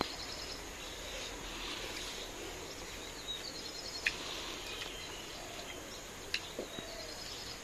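Quiet outdoor background with faint bird chirps now and then and a few light clicks.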